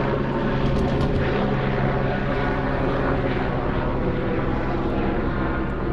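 Boat motor running steadily, a constant hum made of several steady tones.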